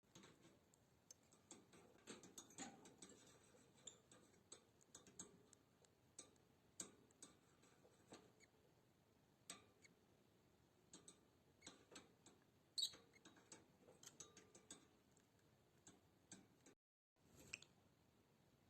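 Faint, irregular clicks and scratches as a lovebird chick breaks out of its eggshell, with one sharper click about two-thirds of the way through.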